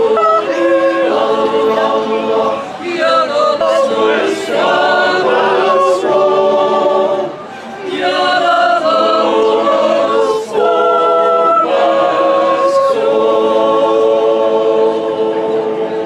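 Swiss yodel choir singing a cappella: several voices holding chords in close harmony, phrase after phrase, with a short break for breath about seven and a half seconds in.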